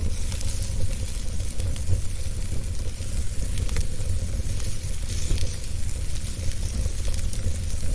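Wood fire burning in a fireplace: a steady low rumble and hiss with scattered small crackles and pops throughout.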